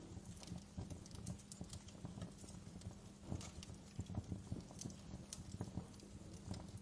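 Wood fire crackling in a fireplace: irregular small pops and snaps over a soft, steady low rumble.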